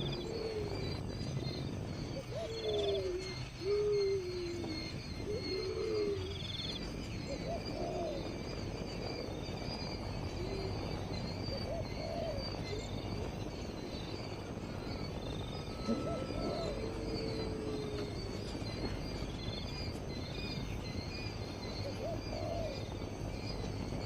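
Short, low, hoot-like bird calls that fall in pitch, repeated every second or two, over a steady high chirping in the background.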